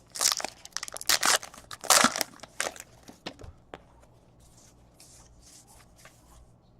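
Crinkling and tearing of a baseball card pack wrapper while cards are handled: several sharp bursts in the first three and a half seconds, then faint rustling.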